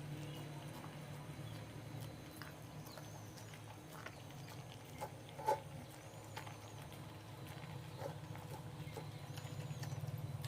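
A dog eating: faint, scattered clicks and taps of chewing and food against the bowl, over a steady low hum, with a few small high chirps.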